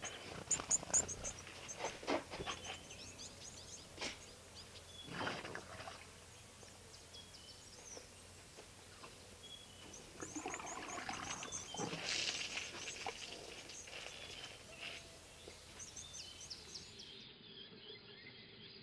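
Small birds chirping in quick runs of short, high, falling notes over a quiet outdoor background. Scattered clicks and scrapes sound throughout, with a few longer rushing noises about five seconds in and again around eleven to thirteen seconds.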